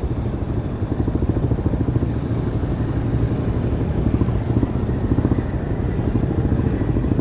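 Demak DTM 150 motorcycle's single-cylinder engine on its stock exhaust, running steadily under way, heard from the rider's helmet.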